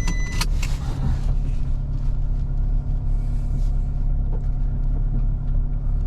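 Vehicle engine running steadily with a low rumble as it drives slowly along a field lane. A pitched electronic beep ends just after the start, followed by a click or two.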